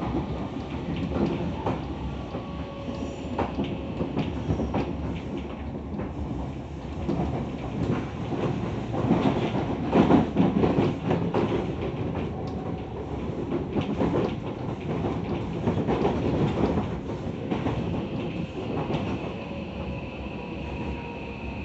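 Tokyo Metro 17000 series electric train running, with wheels clicking over rail joints under a steady rumble. Faint motor whine slowly falls in pitch as the train slows, and a higher whine comes in near the end.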